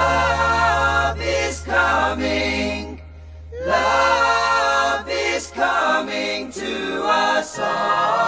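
Background music: a choir singing in sustained phrases over a low held drone, with a short pause about three seconds in.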